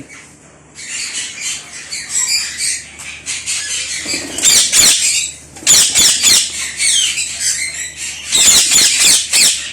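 A colony of ringneck parakeets calling together, with many overlapping shrill squawks and chatter. The calls are quieter for the first second, then grow louder, with louder bursts around the middle and near the end.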